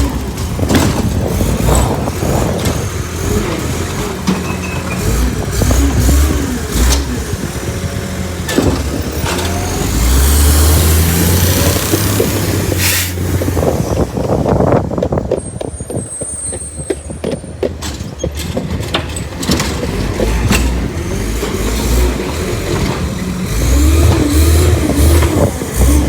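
Bridgeport Ranger recycling truck running, its engine revving up in several bursts as it drives the packer, with a hiss partway through.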